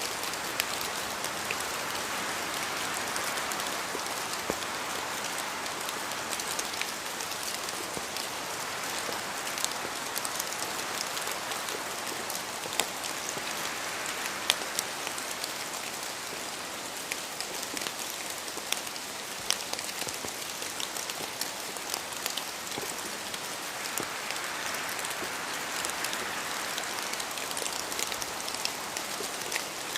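Steady rain in a forest: an even hiss dotted with many separate drops ticking on leaves, and now and then a louder drip falling from the trees. The hiss swells gently twice, a few seconds in and again near the end, as wind moves through the trees.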